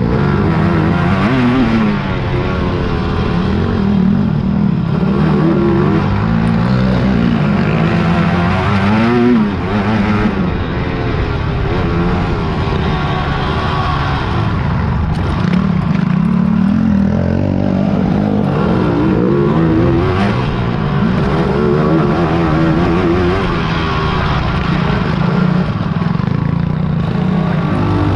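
Several big-bore racing quad (ATV) engines running hard at once, their pitch rising and falling over and over as the throttles open and close.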